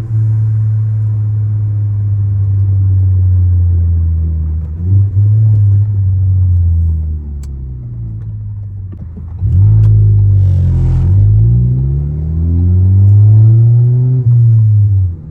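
Tuned Ford Focus ST's turbocharged four-cylinder engine under hard acceleration, revs climbing and dropping several times as it shifts through the gears. A short hiss comes about ten seconds in.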